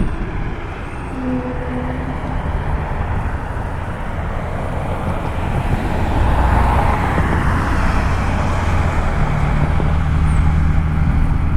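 Jet airliner on approach, its engine roar swelling to a peak about halfway through and staying loud to the end.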